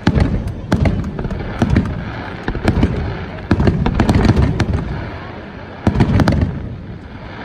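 Fireworks display: aerial shells bursting one after another, sharp bangs that come singly and in quick clusters, each trailing off into a low rumbling echo.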